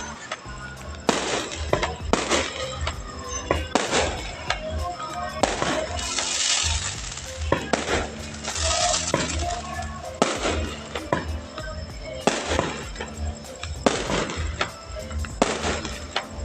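Fireworks bursting overhead in a rapid, irregular series of loud bangs, with crackling trails about six seconds in and again about nine seconds in. Loud music with a heavy bass plays underneath.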